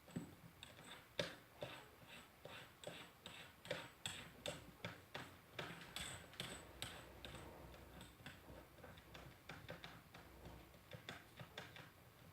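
Faint, irregular light metallic clicks, two or three a second, thinning out after about eight seconds.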